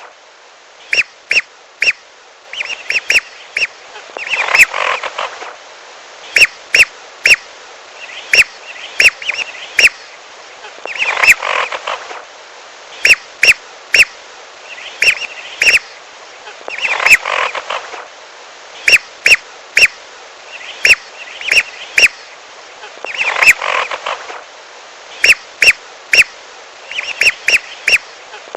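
Whistling duck (belibis) lure call: short, sharp, high whistles come in quick groups of two to four, with a louder burst of many overlapping calls about every six seconds, over a steady hiss.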